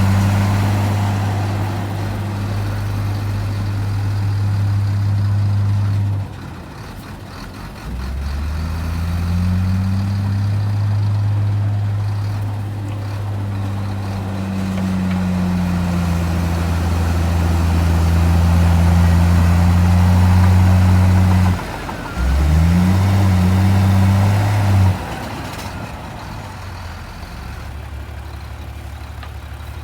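Heavy diesel engine of earthmoving machinery running under load, a steady low drone. It falls away about six seconds in, then climbs back in pitch and holds. It drops again past the middle, surges briefly, and settles to a lower, idle-like level near the end.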